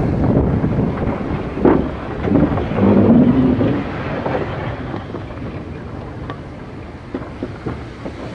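A railway locomotive and its train rumbling past, loud at first with a couple of swells, then fading away, with wind buffeting the microphone.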